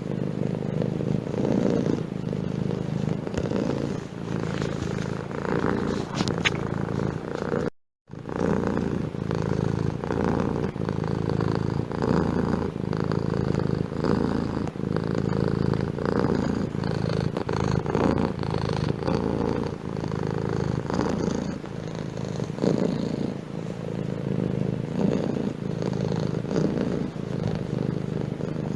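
Domestic cat purring steadily, with a brief break into silence about eight seconds in.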